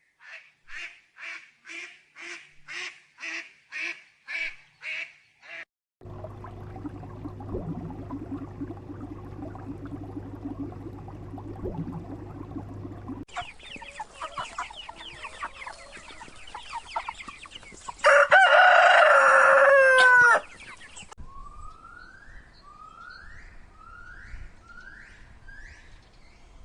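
Chicken sounds: a run of about a dozen evenly spaced clucks, then a loud rooster crow about 18 seconds in, followed by a series of short rising calls near the end.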